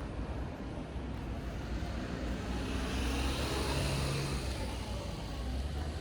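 A car passing by, its tyre and engine noise swelling to a peak about halfway through and then fading, over a low steady rumble of traffic.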